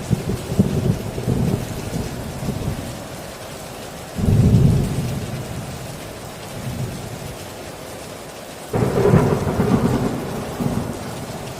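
Heavy rain drumming steadily on a tin roof, with thunder rumbling three times: just after the start, with a sudden onset about four seconds in, and again near nine seconds.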